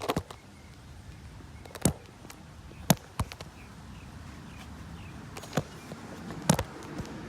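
Scattered sharp knocks and clicks, about six of them a second or so apart, over a low background hiss.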